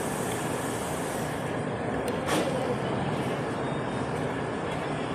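Steady vehicle noise, a continuous even rumble, with a single sharp click a little over two seconds in.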